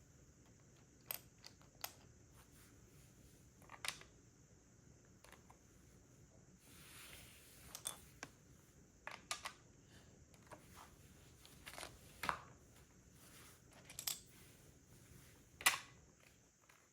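Plastic LEGO pieces being handled and pressed together: about ten sharp, separate clicks at irregular intervals, with a brief soft rustle about seven seconds in.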